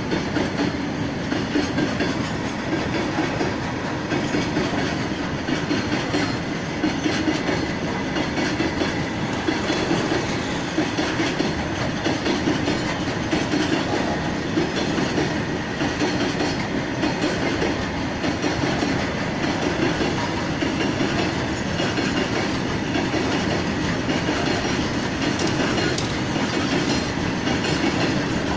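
Freight train of tank wagons rolling steadily past, a continuous rumble with the clatter of wheels on the rails.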